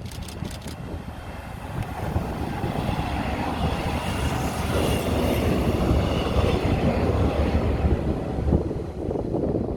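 Electric multiple unit train (car EMC526) passing on a test run, its running rumble and wheel noise building to a peak in the middle and easing slightly near the end. A few quick sharp clicks in the first second.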